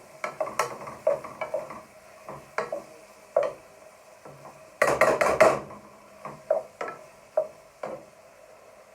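A spoon stirring food in a frying pan, knocking and scraping against the pan about once a second, with a short rapid clatter about five seconds in.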